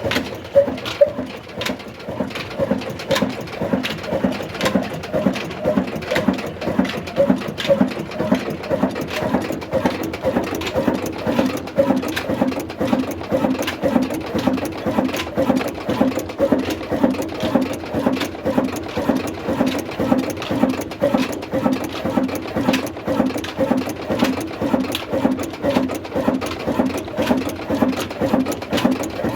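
Old black 35 hp diesel engine running at a steady speed, its beat coming as an even, rapid, unbroken rhythm of mechanical knocks.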